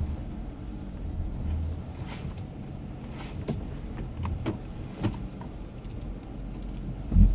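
Dodge Grand Caravan minivan running at low speed while backing into a parking spot, heard from inside the cabin as a steady low rumble, with a few small clicks midway and a single heavier thump near the end.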